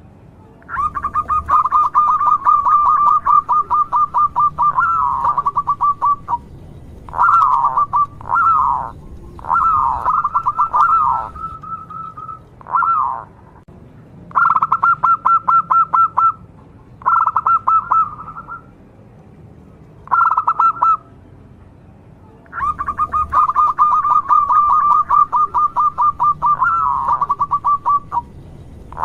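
Zebra dove (perkutut) singing its pulsed, rapidly repeated cooing song: a long run of quick coo notes, a string of short phrases with falling glides, several brief bursts, and another long run near the end.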